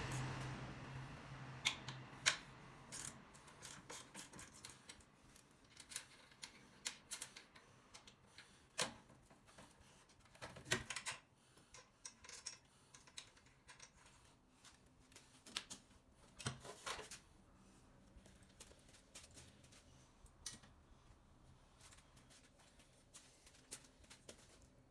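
Irregular light clicks and taps of hand tools and metal parts being handled, some sharper than others, thinning out in the last few seconds.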